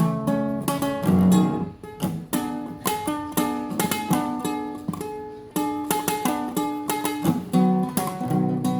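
Solo classical guitar playing a fast tremolo passage: rapid repeated plucked notes over a moving bass line.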